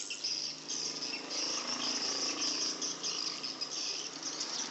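Swiftlets twittering: a dense, continuous chatter of high chirps.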